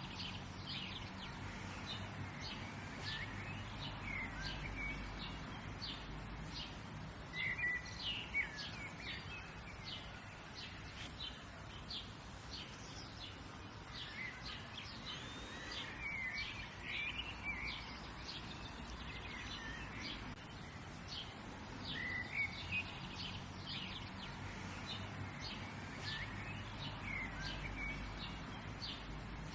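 Wild birds chirping and singing: many short, high chirps throughout, with fuller song phrases every several seconds, over a steady low background rumble.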